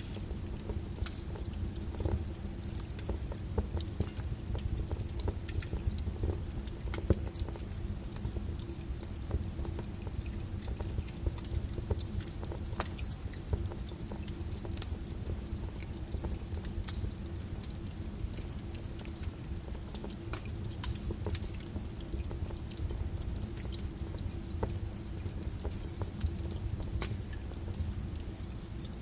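Wood fire crackling and popping, with a steady low rumble of the flames under many irregular sharp snaps.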